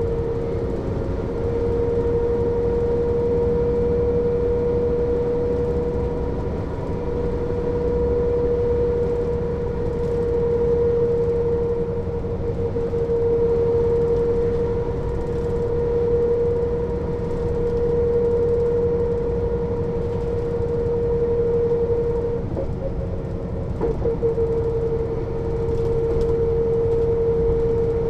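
Mercedes-Benz O 407 bus running at a steady pace: a low diesel rumble under a steady high whine, swelling gently now and then, with a few brief rattles near the end.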